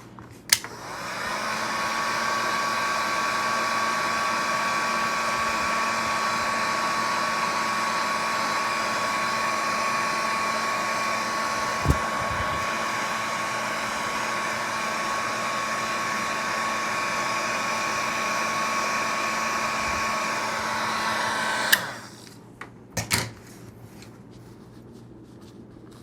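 Heat gun switched on with a click, its fan spinning up to a steady blowing whine as it heats Kydex to soften it for forming. It runs for about twenty seconds, then clicks off and winds down, followed by a couple of light knocks.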